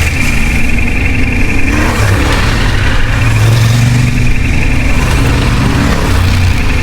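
Off-road motorcycle engine running while being ridden, its revs rising and falling as the rider works the throttle.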